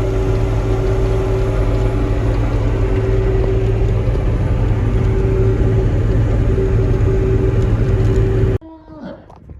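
Tractor engine running steadily under load as heard inside the cab: a low drone with a steady whine over it. It cuts off suddenly near the end, giving way to quiet outdoor air.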